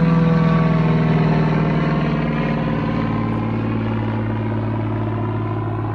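Honda CRF450R's single-cylinder four-stroke engine idling at a steady pitch, slowly growing quieter.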